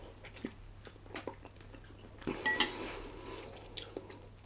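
Cutlery clinking and scraping against a dish during eating: a few light clicks, with a brighter, briefly ringing clink about two and a half seconds in.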